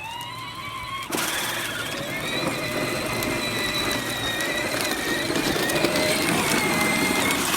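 Battery-powered ride-on John Deere toy tractor driving, its electric motor and gearbox giving a steady whine that jumps up about a second in and drifts slightly in pitch.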